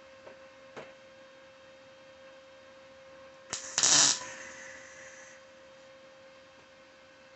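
A short burst of welding, about two-thirds of a second long, a little over three seconds in, as a weld bolt and nut are tacked on. A steady electrical hum runs underneath.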